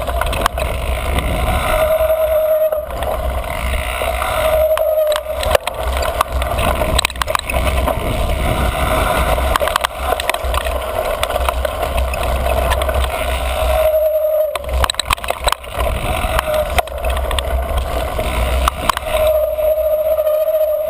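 A mountain bike rolling fast over a dirt trail, with wind on the microphone and the frame and chain rattling over bumps. The front brake squeals in a steady high tone several times as it is applied: about 2 s in, about 5 s in, about 14 s in, and again near the end.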